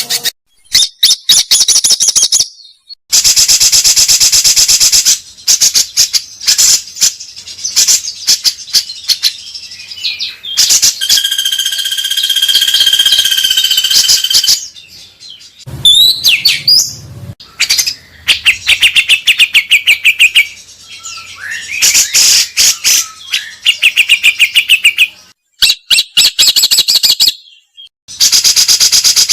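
Loud recorded songbird song: fast chattering trills of rapidly repeated notes and whistled glides, with a held whistle about halfway through. It is broken by several sudden cuts to silence, the splices of a song compilation.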